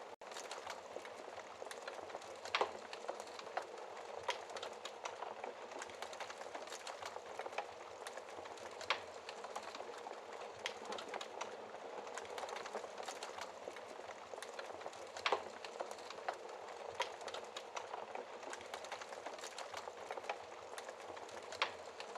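Fireplace fire crackling: a steady hiss of flames with many small pops and snaps. A louder snap comes about every six seconds.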